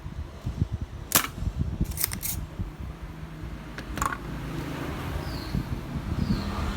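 Four sharp clicks, two of them close together in the middle, over a low rumble.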